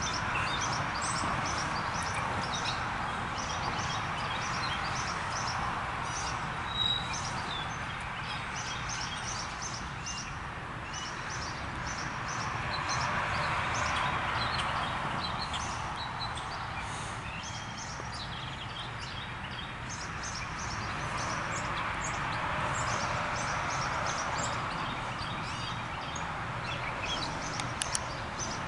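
Loaded autorack freight cars rolling along the rails, a steady wheel-and-rail noise that swells and fades as the cars pass. Birds chirp throughout.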